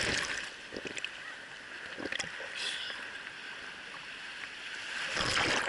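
Seawater sloshing and waves washing around an action camera held in the surf, with a loud rush of water near the end.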